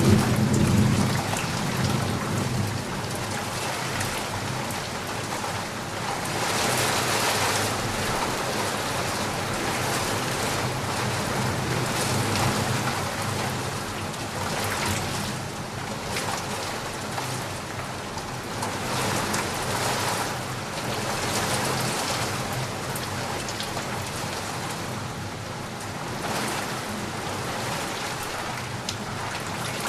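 Heavy rain falling steadily, swelling and easing in waves. In the first couple of seconds, the low rumble of a thunderclap dies away.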